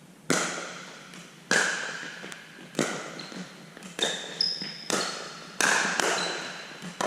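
Pickleball rally: sharp pops of paddles striking the hollow plastic ball about once a second, each with a short ringing tail.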